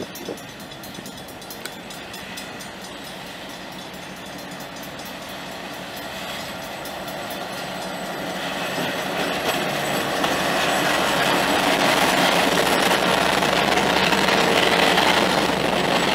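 Diesel locomotive hauling a passenger train, approaching and passing close by: the engine running and the wheels on the rails, growing steadily louder from about halfway through.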